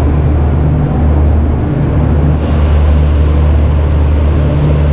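Indian express train pulling out of a station, heard from the doorway of a moving coach: a steady low drone and rumble of the train under an even rush of noise.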